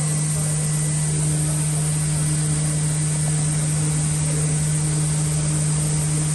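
Laser cutter running while cutting a plastic (acrylic) mirror sheet: a steady machine hum with a constant high hiss.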